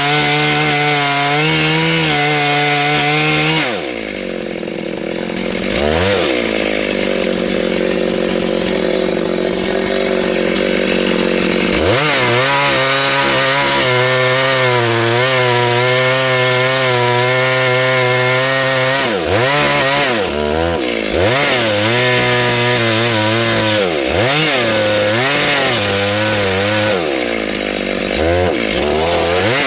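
Two-stroke chainsaw cutting wood at high revs. About four seconds in, the engine speed drops and stays lower for several seconds, then revs back up near twelve seconds. Later, the engine speed dips and recovers again and again.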